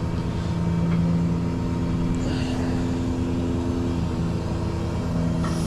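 Truck engine idling steadily, a low even hum with slight changes in pitch.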